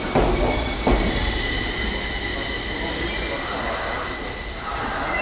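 Enshu Railway electric train moving slowly along the platform, its wheels squealing in steady high tones over a low rumble. Two sharp knocks sound in the first second.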